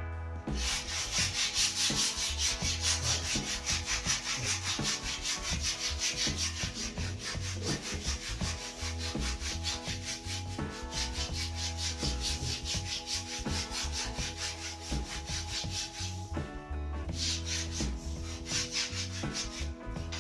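Sandpaper rubbed back and forth along a wooden snooker cue shaft in quick, even strokes, taking off the excess material; the sanding stops briefly near the end, then resumes.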